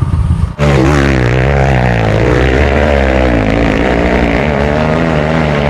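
Trail motorcycle engine running, its pitch wavering up and down with the throttle; a different sound briefly before it, about half a second in.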